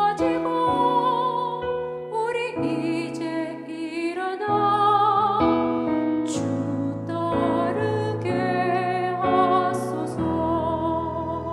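Church choir singing a slow anthem with piano accompaniment; the voices have vibrato over held piano chords.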